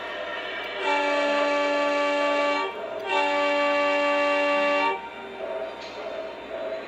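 O gauge model diesel locomotive's onboard sound system blowing two long horn blasts, each about two seconds, with a short gap between, over the engine's steady diesel rumble.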